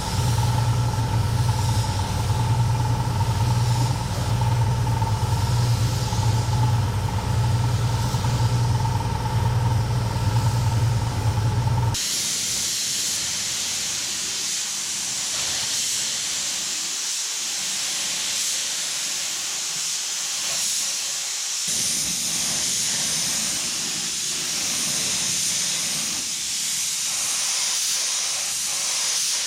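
Air spray gun hissing steadily as it sprays SEM World Class Primer over bare-metal and body-filler spots. For about the first twelve seconds a steady low hum runs under the hiss, then stops suddenly, leaving the high spray hiss alone.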